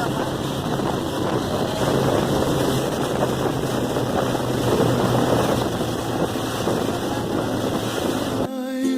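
Motorcycle riding at steady speed, the engine's steady drone under heavy wind buffeting on the microphone. It cuts off abruptly near the end as ukulele music comes in.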